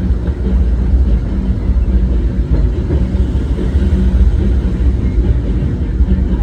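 Steady low rumble of a narrow-gauge steam railroad's passenger car rolling along the track, heard from aboard the train.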